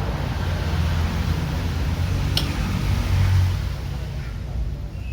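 A steady low rumble with one sharp metallic clink about two and a half seconds in, from hand tools on engine parts.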